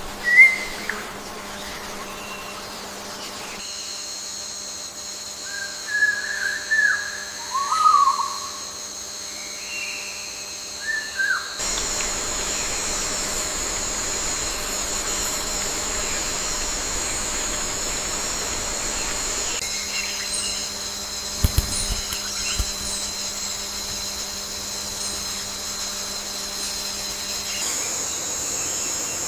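Forest ambience: several short whistled bird calls over a steady high-pitched insect drone, with two sharp ticks about two-thirds of the way through. The background changes abruptly a few times as one recording cuts to the next.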